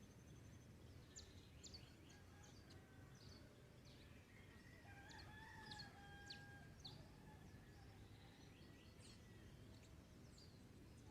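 A rooster crowing once, faint and distant, about five seconds in, with scattered short high chirps of small birds throughout.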